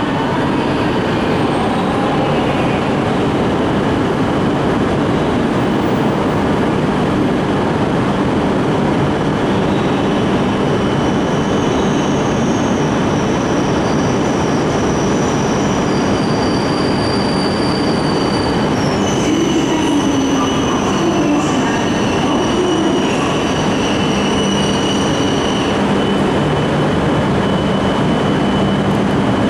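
E5 series Shinkansen train pulling into the station platform: a steady, loud rumble of the running train with high thin squealing tones that come and go, strongest in the second half.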